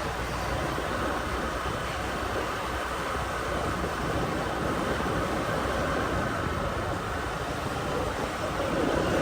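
Steady rumbling road noise from riding a motorbike through city traffic.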